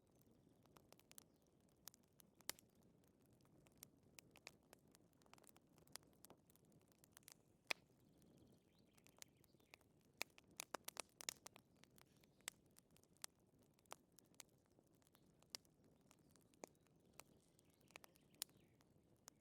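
Wood fire crackling quietly in a fireplace: irregular sharp pops and snaps over a faint low hiss, with a brief flurry of pops about halfway through.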